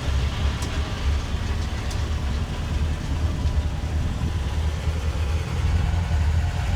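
Tourist train running, a steady low engine rumble.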